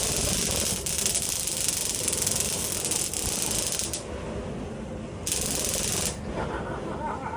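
Stun-gun ignition arcing with a harsh crackling buzz, in one long burst of about four seconds, then a shorter one about a second later, over a steady low hum, as the homemade flamethrower waits for fuel to reach the spark.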